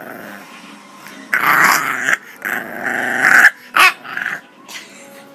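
Bulldog puppy growling and grumbling in two long, loud bouts, followed by a short sharp sound about four seconds in: an overtired puppy protesting instead of settling down to sleep.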